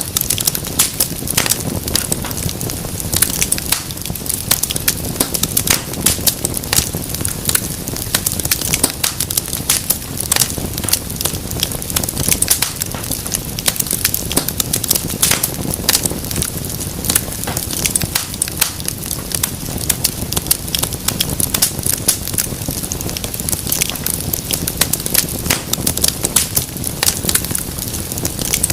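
Wood fire crackling in a fireplace: many sharp irregular pops and snaps over a low, steady rush of flame.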